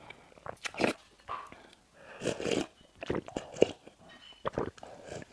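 Close-miked eating sounds of bread and pastry: irregular bites and chewing, with a few sharp clicks among them.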